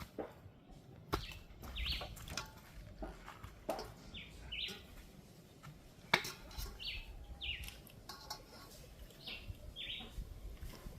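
Small birds chirping: short falling chirps in ones and pairs every second or two. A few sharp knocks come in between, the loudest about six seconds in.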